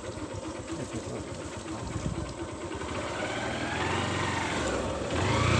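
A small vehicle engine running with a rapid steady pulse. It grows louder and heavier in the second half.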